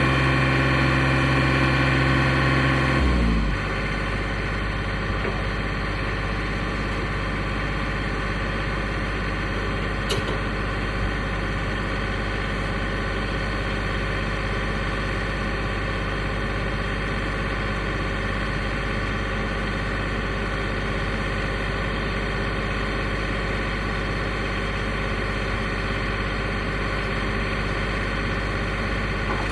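Portable sawmill's gasoline engine running fast, then throttling down about three seconds in and idling steadily for the rest. A single brief click sounds about ten seconds in.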